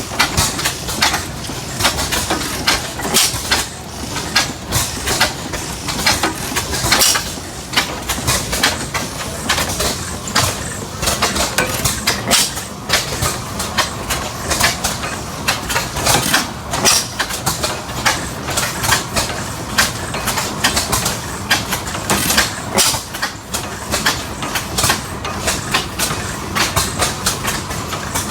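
Antique stationary gas engine running, with a sharp knock or pop from it every half second or so, unevenly spaced, over a steady low drone.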